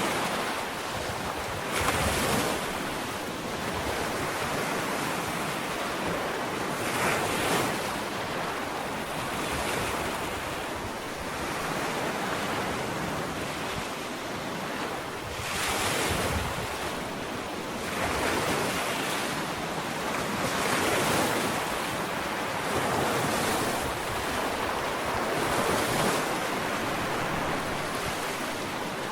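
Ocean waves breaking and washing up a sandy beach, each surge swelling and fading every few seconds over a steady wash of surf.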